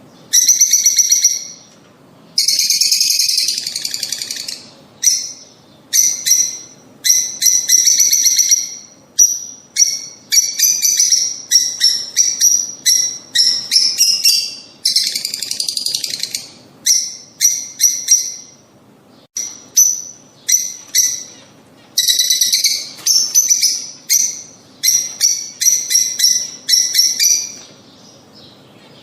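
Lovebirds calling: shrill, high-pitched chirps repeated in quick series, broken by a few longer bursts of chattering.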